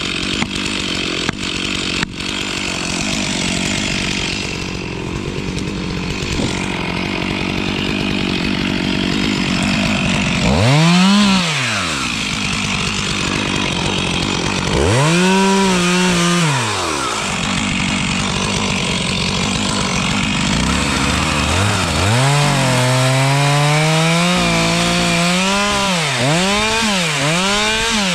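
Stihl two-stroke chainsaw idling, with a few sharp clicks in the first two seconds. It is then revved up and let back down twice, and from about two-thirds of the way through it runs at high speed with quick repeated revs.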